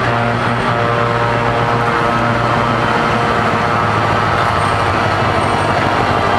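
Heavy truck diesel engine running through an open, unsilenced exhaust, a loud, steady, deep note that turns rougher about halfway through.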